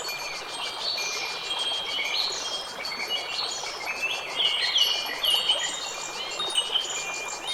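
Nature soundscape of many overlapping high ringing tones, some gliding like bird chirps and some held like chime notes, over a steady background hiss.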